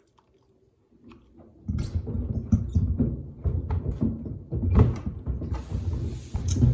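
Sneakers tumbling in the drum of a Samsung WD70T4047CE front-loading washer, knocking and rattling irregularly. It starts suddenly about a second and a half in, after near silence, as the drum begins turning.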